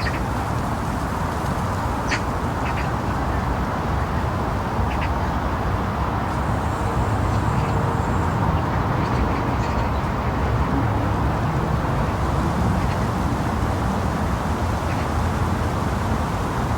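Ducks quacking now and then over a steady low rumble.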